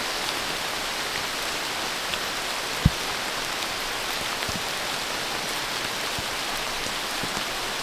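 Steady rain falling, an even hiss of drops, with one dull low thump about three seconds in.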